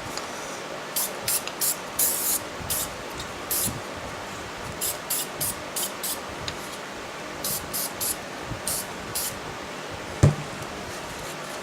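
Aerosol cleaner sprayed in short hissing squirts, a dozen or more in irregular groups, while a cylinder is cleaned during an engine rebuild. A single sharp knock comes about ten seconds in.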